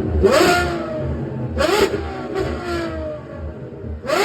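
Straight-piped V12 Lamborghini engine revved in several quick blips, each sharp rise in pitch falling back toward idle.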